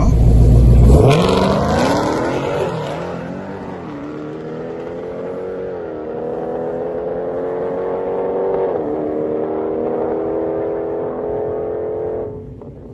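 Dodge Hellcat's supercharged 6.2-litre Hemi V8 accelerating hard through the gears. It opens with a loud launch, the engine pitch climbs and then drops at each shift, about four, six and nine seconds in, and the sound cuts off abruptly near the end.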